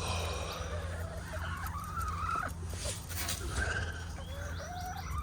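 Backyard hens making short, wavering calls a few times, over a steady low hum.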